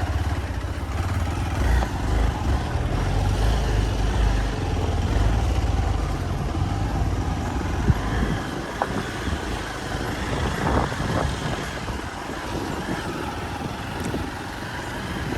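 Hero XPulse 200 single-cylinder motorcycle running while it is ridden over a rough off-road track. There is a strong low rumble for the first few seconds, then a few sharp knocks about halfway through.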